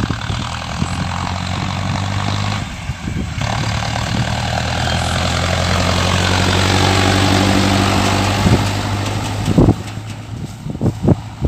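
Mahindra Arjun Novo tractor's diesel engine running steadily, growing louder toward the middle and easing off again. A few sharp knocks near the end.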